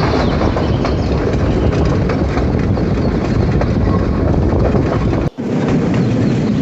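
Waterfall pouring into a pool: a loud, steady rush of water, cut off briefly about five seconds in before it resumes.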